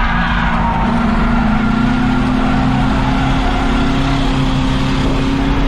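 Race car engine running hard and steady on an oval track, its pitch slowly climbing.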